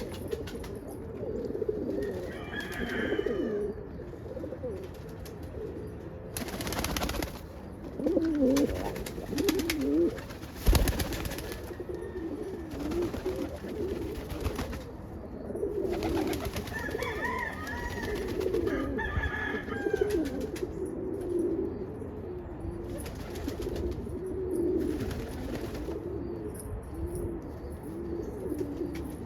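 Several pigeons cooing continuously in overlapping, warbling coos, with a few higher chirps and a few brief bursts of noise.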